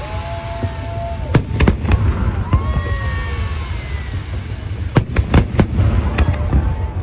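Fireworks display: aerial shells bursting in a run of sharp bangs over a steady low rumble. A few drawn-out tones glide slightly in pitch in the first half.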